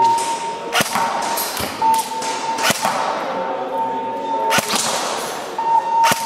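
Airsoft guns fired in single shots: about six sharp cracks, unevenly spaced a second or more apart. A steady high beep sounds on and off between them.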